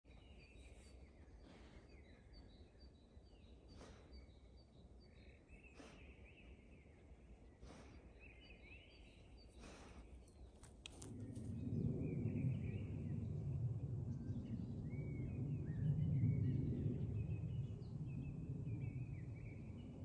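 Small songbirds singing and calling in a spruce forest, with short chirping phrases throughout. A sharp click comes every couple of seconds in the first half. About halfway through, a louder low rumble rises under the song.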